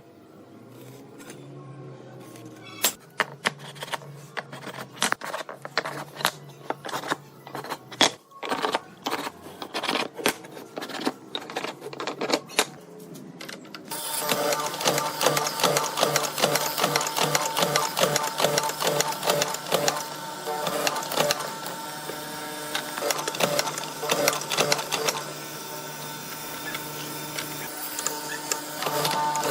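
Irregular clicks and taps, then about halfway through a small machine starts with a rapid, steady mechanical rattle.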